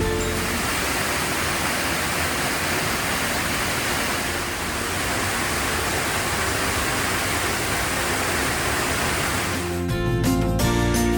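Rushing water, a steady full rush of white-noise-like sound such as a waterfall or fast mountain river makes. Background music comes back in near the end.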